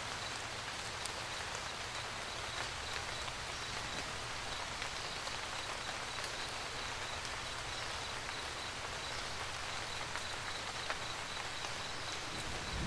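Steady rain pattering on a roof, with scattered single drops ticking.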